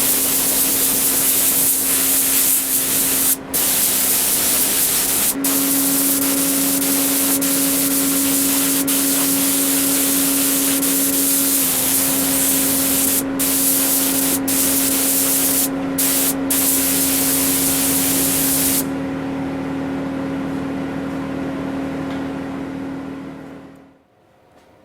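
Compressed air hissing hard from an air-powered spraying tool in long bursts broken by a few brief pauses, over a steady hum. The hiss cuts off about three-quarters of the way through, and the remaining sound dies away shortly before the end.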